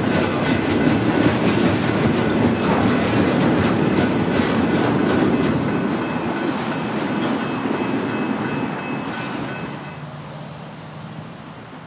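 A train rolling past, its wheels rumbling and clicking over the rail joints, with several high-pitched wheel squeals from the rails in the middle. The sound fades over the last couple of seconds as the train moves away.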